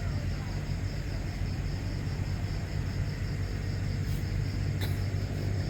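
Steady low rumble of a moving train, with a couple of faint clicks near the end.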